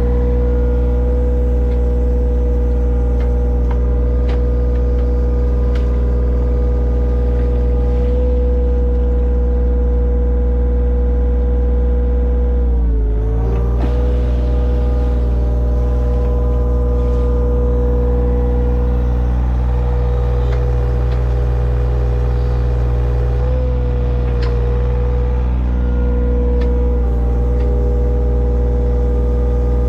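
A large engine on heavy digging equipment runs steadily. About thirteen seconds in it briefly drops in pitch under load, then recovers.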